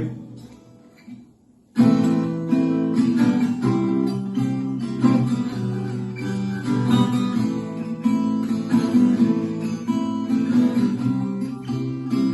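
Acoustic guitar strumming chords, starting about two seconds in after a short pause.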